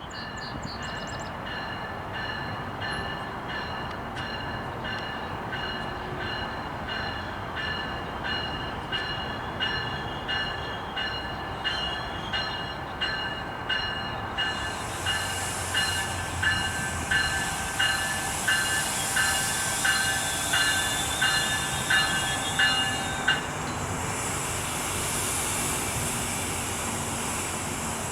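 GO Transit train arriving, its locomotive bell ringing in a steady repeated beat, about one and a half strikes a second, growing louder until it stops about 23 seconds in. A high hiss from the train joins about halfway through and carries on after the bell stops.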